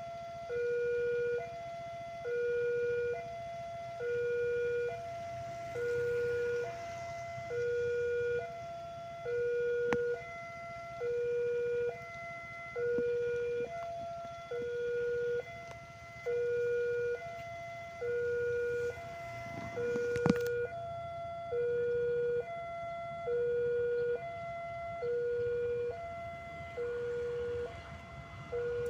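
Electronic railway level-crossing warning alarm sounding a steady two-tone high-low pattern, about one cycle a second, which warns that a train is approaching. A single sharp knock is heard about two-thirds of the way through.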